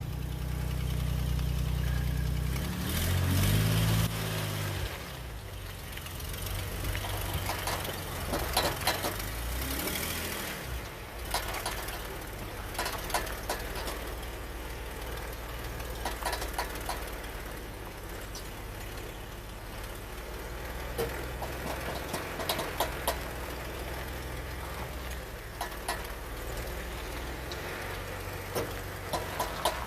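Jeep engine running, with a brief rev about three seconds in. Repeated bursts of sharp clicking come from the Jeep while it turns in four-wheel drive.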